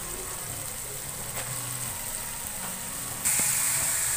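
Spiced onion-tomato masala sizzling steadily in oil in a wok. About three seconds in, the sizzling jumps louder as chopped fenugreek (methi) leaves fry and are stirred with a wooden spatula.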